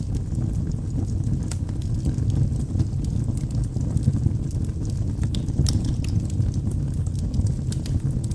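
Wood fire burning in a fireplace: a steady low rumble of the burning logs with sharp crackles and pops scattered through it.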